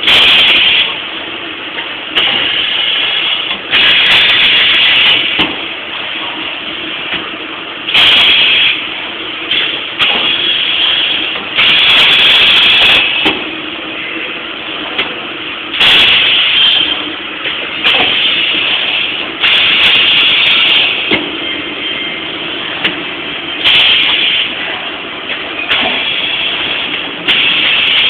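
High-frequency plastic welding machine running through repeated cycles: a steady low hum with bursts of hiss, each a second or two long, every two to four seconds, and a few sharp clicks.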